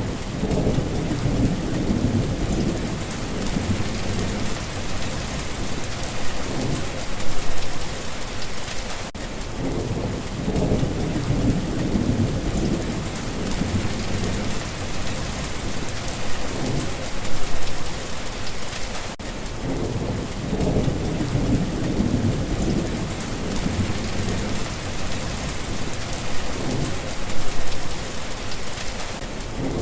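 Steady rain hissing, with low rumbles of thunder that swell about every ten seconds, loudest a little after seven, seventeen and twenty-seven seconds in. The same ten-second stretch repeats as a loop.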